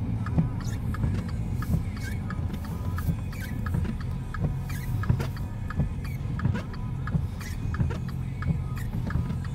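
Car engine running steadily under load as the car tries to move through deep snow, with many irregular short clicks over it.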